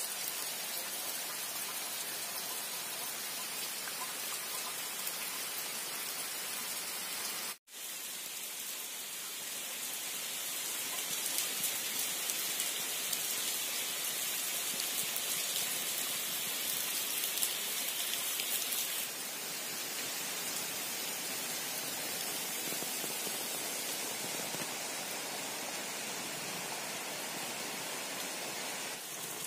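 Steady heavy rain falling on garden plants and muddy, puddled ground. The sound cuts out for an instant about a quarter of the way in.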